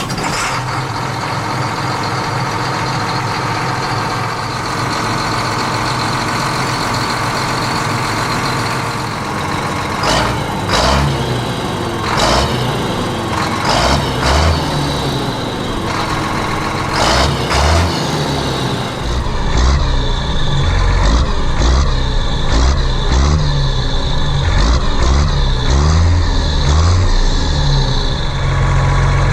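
Heavy vehicle engine sounds, like a truck or tractor running and labouring, with several short, loud blasts through the middle and a chugging low rumble in the last third.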